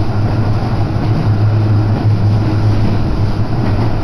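Electric commuter train running, heard from inside the car: a steady rumble of wheels on the track with a low hum.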